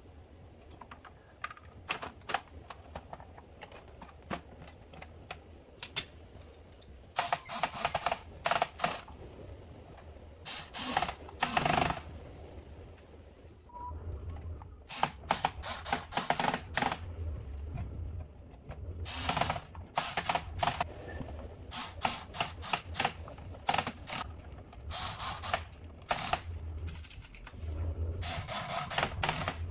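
Irregular clicks, taps and short scrapes of hand tools and small parts being handled during repair work on a DJ controller, over a low steady hum.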